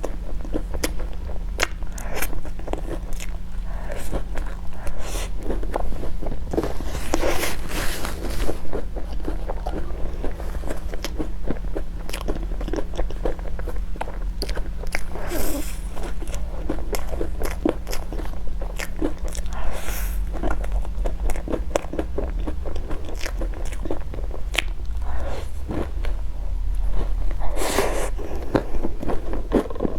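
Close-miked eating: a person biting and chewing crunchy food, with many sharp wet clicks and a few louder crunching bites.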